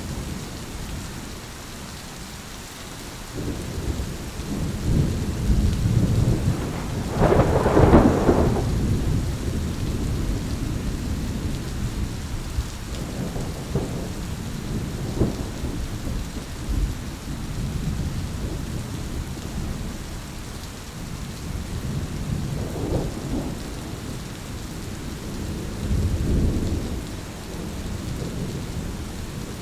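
Thunderstorm: steady rain with thunder rumbling on and off, the loudest peal about eight seconds in and further rolls near the end.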